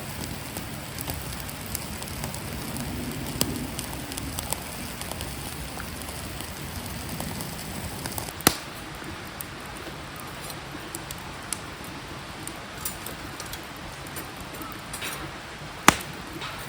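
Wood campfire crackling with scattered small pops and two sharp snaps, about eight seconds in and near the end, over a steady rush of stream water.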